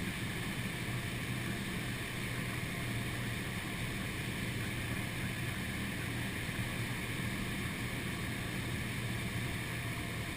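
Cessna 172 cabin noise: the engine and propeller droning steadily with the rush of airflow, unchanging throughout.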